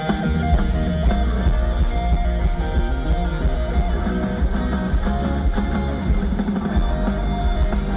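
Live rock band playing with guitar and drums, a fairly loud, steady stretch of instrumental music with no singing.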